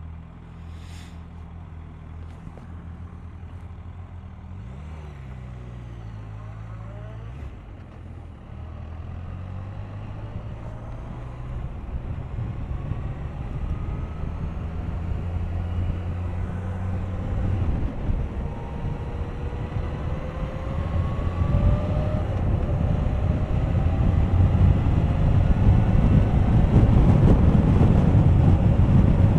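Suzuki GSX1250FA's inline-four engine idling with a quick blip of the throttle about five seconds in, then pulling away and accelerating, its note rising in pitch several times through the gears. Wind rush grows louder as the speed builds.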